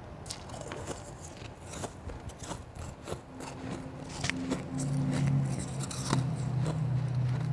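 Soft shaved and blended ice being chewed up close, a run of sharp crackling crunches. About three seconds in, a low steady hum joins and grows louder.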